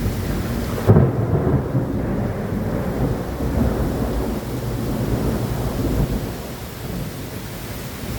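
A thunderclap breaks sharply about a second in, then rolls on as a low rumble for several seconds and fades toward the end, over the steady hiss of rain.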